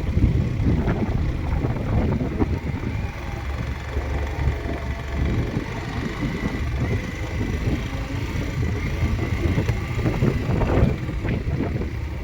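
Wind buffeting the microphone of a moving motorcycle, a steady low rumble, with the bike's running and road noise beneath.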